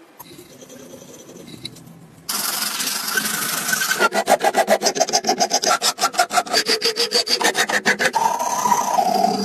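Abrasive hand work on a stove part: quiet at first, then from about two seconds in a loud scraping that breaks into rapid, even rubbing strokes, about nine a second, and settles back into a steadier scrape near the end.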